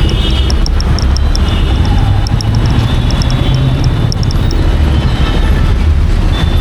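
Royal Enfield Meteor 350's single-cylinder engine running with a steady, loud low rumble, with a string of short high chirps over it.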